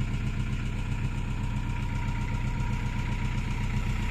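BMC marine diesel engine idling steadily on a river cruiser, with an even low running note.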